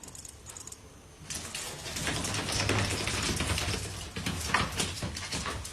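Rapid, irregular clicking and scratching, growing louder about a second and a half in.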